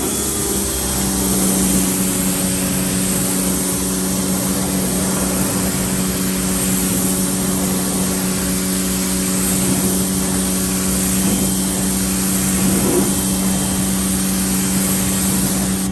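Pressure washer running steadily, its motor-driven pump humming at a fixed pitch under the loud hiss of the water spray, rinsing tire cleaner and dirt off a scrubbed tire and wheel.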